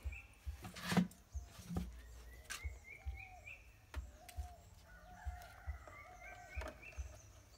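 Bird calls in the background, short notes repeated many times, with a few sharp clicks and knocks. The loudest click comes about a second in.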